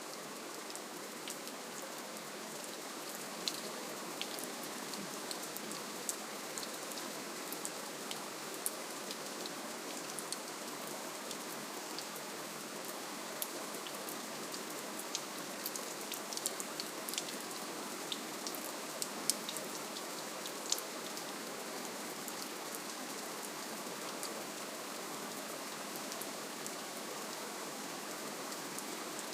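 Soft, steady rainfall: an even hiss with scattered sharp ticks of single drops hitting a surface, busiest around the middle.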